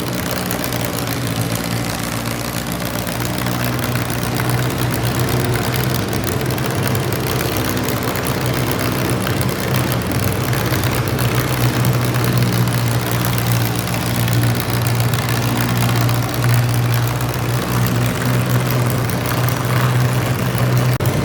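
Modified garden tractor engine running loud and steady at high speed, its pitch holding nearly constant throughout.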